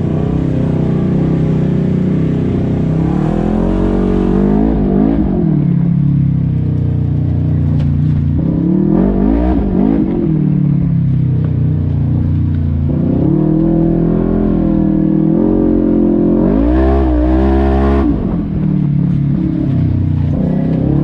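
Side-by-side UTV engine running under load, its note rising and falling as the throttle is worked, with about four swells of revving.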